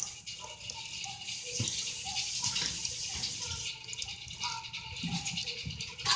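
Wood fire in a fireplace crackling: a steady hiss thick with many small pops.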